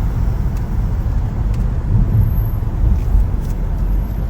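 A car in motion, with a steady low rumble of engine and road noise.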